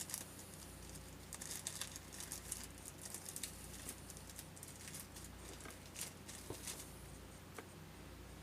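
Faint scattered clicks and light scratching of small parts being handled while a new axle seal is worked into place, over a steady low hum.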